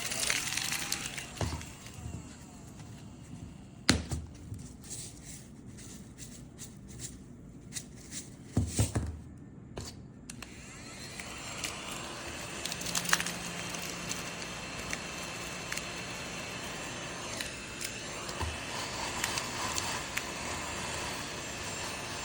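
Scattered knocks and handling clatter, then from about ten seconds in a cordless mini desktop vacuum cleaner runs with a steady whir.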